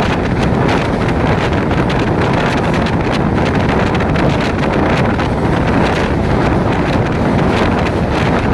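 Wind buffeting the microphone over the steady low rumble of a moving train.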